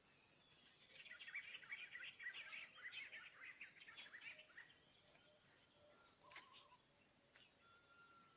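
Faint birds chirping: a dense run of quick, high chirps starting about a second in and lasting a few seconds, then scattered single calls.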